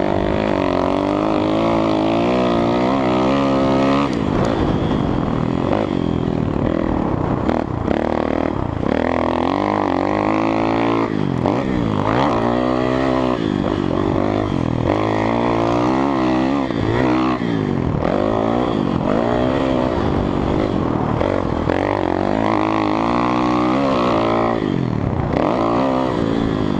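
Kawasaki KX450F single-cylinder four-stroke dirt bike with a loud Two Brothers exhaust, revving up and backing off over and over as it is ridden around a motocross track.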